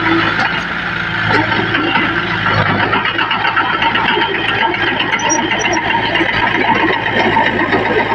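Diesel engines of heavy earthmoving machinery running steadily, with a dense mechanical clatter.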